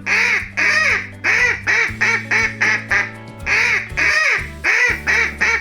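A duck quacking over and over, about a dozen quick quacks in short runs, over light background music.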